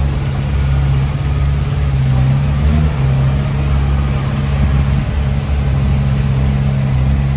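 Heavy diesel engine running steadily at an even speed, a loud low hum whose pitch barely changes.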